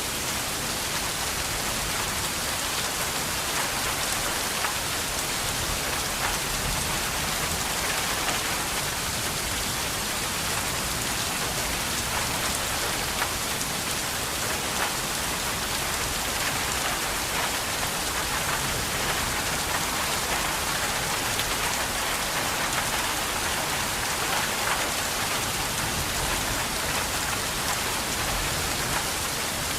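Steady rain falling, a continuous even hiss of many drops landing on a surface, with no change in strength.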